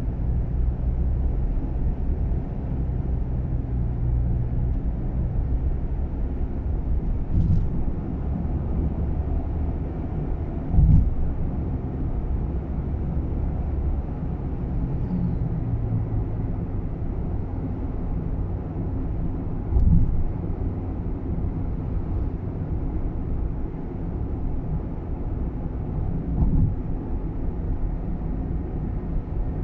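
Steady road and drivetrain rumble inside the cabin of a Nissan Roox kei car on the move, with four brief sharp knocks spread through it, the loudest about 11 and 20 seconds in.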